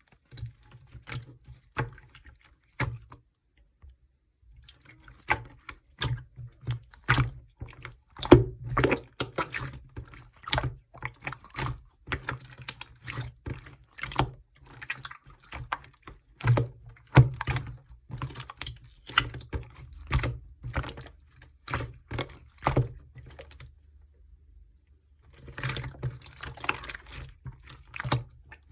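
Clear slime being mixed with clay and worked by hand: rapid, irregular sticky clicks and wet pops, with a short pause about three seconds in and another near the end.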